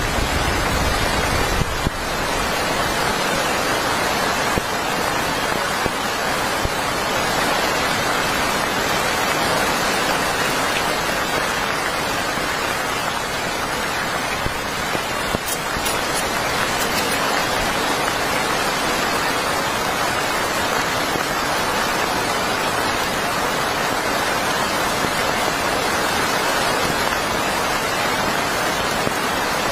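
Heavy rain falling steadily, an even hiss and patter at a constant level. A low wind rumble dies away about two seconds in.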